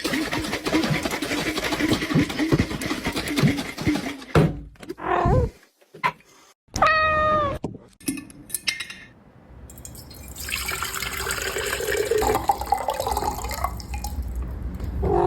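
A domestic cat meowing: a short cry about five seconds in, then one clear, slightly falling meow about seven seconds in. A steady rushing, water-like noise fills the first few seconds and returns near the end.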